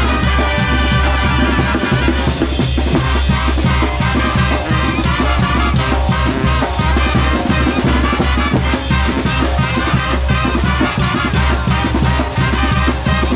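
Mexican banda, a brass band from Oaxaca, playing: brass over snare and bass drum with a steady beat and a strong bass line.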